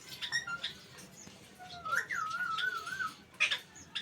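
Ring-necked parakeet calling: short chirps and clicks, then a wavering, warbling note that lasts about a second in the middle, and a couple of sharp chirps near the end.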